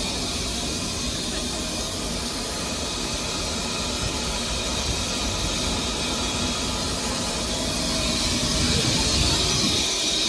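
Steam tank locomotive dressed as Thomas the Tank Engine, letting off a steady hiss of steam that grows a little louder near the end.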